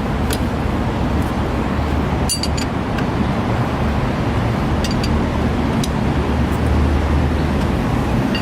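Steady traffic noise with a low hum, broken by a few light metallic clinks, a pair about two seconds in and a couple more about five seconds in.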